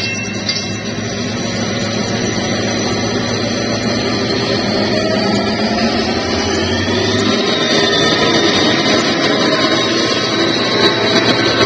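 Train running, a steady rumble and noise with several held tones; a high tone slides up and back down a little past the middle.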